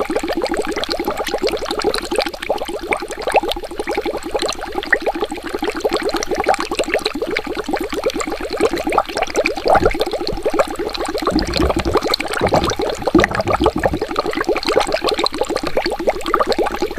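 Water bubbling: a dense, steady stream of small bubble pops, with deeper low gurgles between about ten and fourteen seconds in.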